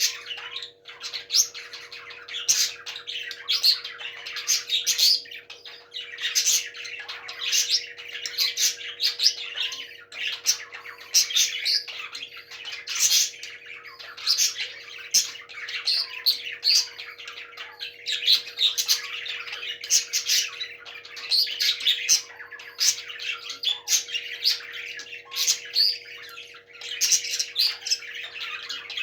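Parrots squawking and chirping, a dense, unbroken string of harsh calls, over a faint steady hum.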